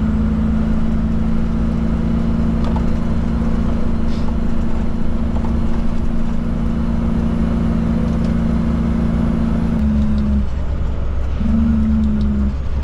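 Kenworth K200 cabover truck's Cummins diesel running steadily under way with a low rumble. About ten seconds in its note shifts and drops out for about a second, then comes back.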